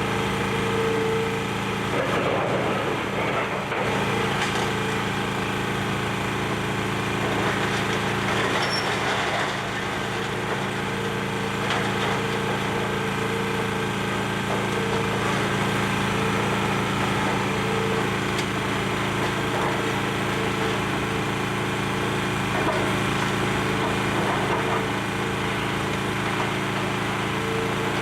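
Demolition excavator's engine running steadily while the machine tears at the building, with bouts of crunching and cracking as debris breaks.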